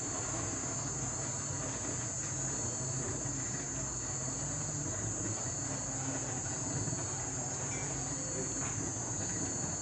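Steady, high-pitched chorus of night insects such as crickets, an unbroken shrill drone.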